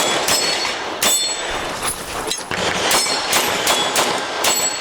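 A string of about six pistol shots at uneven spacing, with steel targets ringing after several of them.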